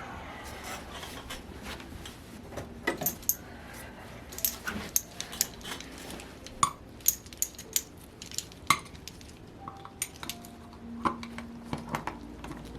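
Metal hand tools and small engine parts clinking and tapping in irregular sharp clicks, a few with a brief metallic ring, during work to remove the drive hub collet from a model engine.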